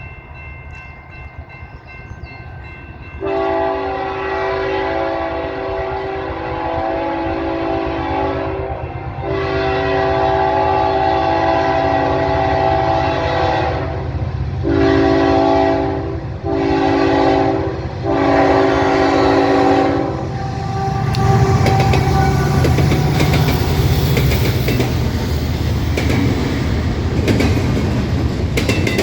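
Diesel locomotive's multi-tone air horn blown in a grade-crossing pattern: two long blasts, two short ones and a final long one. As the horn stops the locomotive passes with a heavy rumble, followed by the clickety-clack of train wheels over rail joints.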